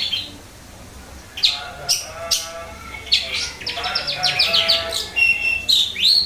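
Long-tailed shrike (cendet) singing a varied, chattering song: after a short pause, quick sweeping notes, then a fast run of repeated chirps about three seconds in, and a short steady whistle near the end.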